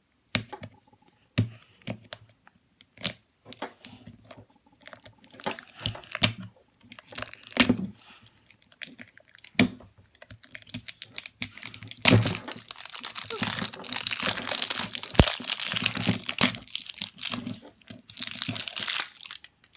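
Scattered clicks and taps from handling a plastic toy package, then from about twelve seconds in a long stretch of plastic wrapping crinkling and tearing as it is pulled open.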